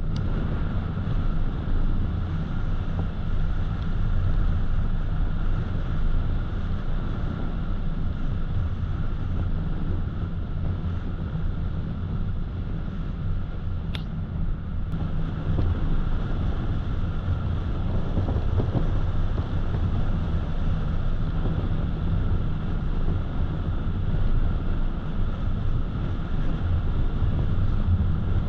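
Car driving steadily at road speed: a continuous low rumble of tyres and engine with some wind noise, and a single faint tick about halfway through.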